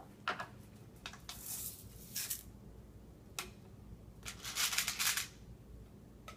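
Loose metal nails rattling inside a bucket as it is shaken: a few separate clicks at first, then two short bursts of jangling.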